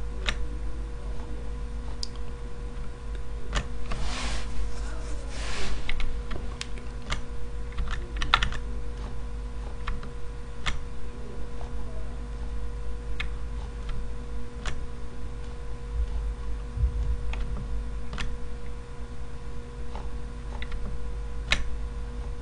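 Computer keyboard keys clicking at scattered intervals, with a quicker run of keystrokes about four to six seconds in, over a steady low electrical hum.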